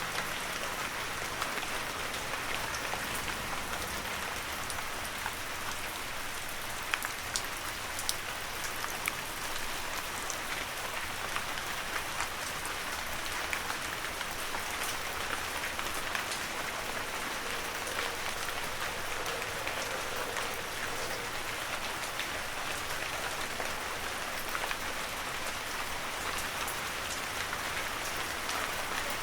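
Heavy rain falling steadily in a forest, an even hiss with many individual drops pattering close by.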